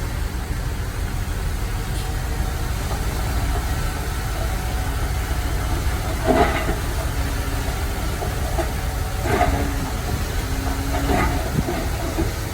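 Heavy diesel machinery running with a steady low rumble, broken three times by a brief louder knock with a short ringing tone, about six, nine and eleven seconds in.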